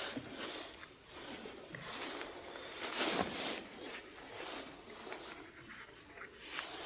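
Rustling and scraping of camp gear and packaging being handled, in uneven bursts with a few small clicks.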